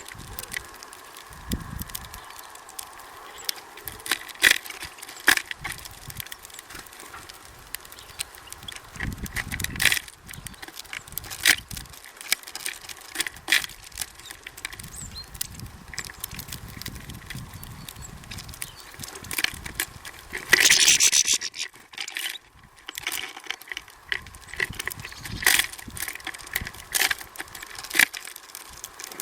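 Small birds at a seed feeder: scattered sharp clicks and taps of pecking at seed and hopping on the feeder, with a brief louder flurry about twenty seconds in.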